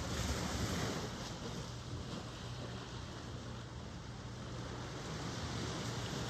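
Ocean surf washing in, a steady rush with low rumble that swells in the first second, then eases.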